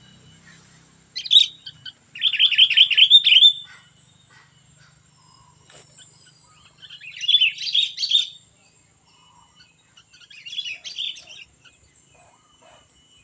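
Sooty-headed bulbul (kutilang) singing in three or four short bursts of quick, repeated chattering notes with pauses between: the fast 'cengkram' phrases that bird keepers prize. A faint steady high tone runs beneath.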